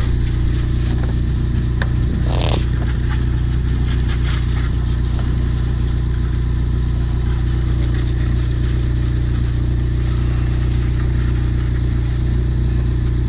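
Motor vehicle engine running steadily, a constant low hum that holds even throughout, with a brief rustle about two and a half seconds in.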